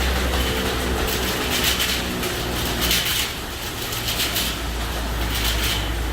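Belanger FreeStyler automatic car wash running: a steady low machine hum with several short hissing surges, about one every second.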